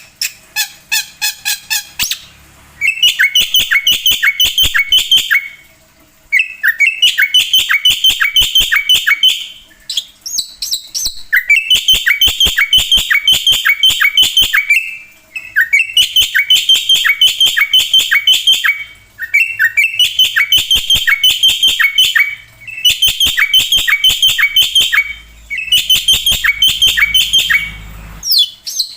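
Black-winged myna (jalak putih) singing loudly in runs of rapid, repeated notes, about seven a second, each run lasting around three seconds with short pauses between.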